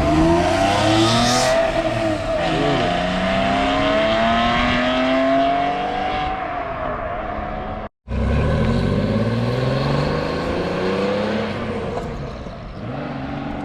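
Car engine accelerating hard, its pitch climbing and then falling as it goes by. About eight seconds in, a cut to another car engine accelerating, which fades near the end.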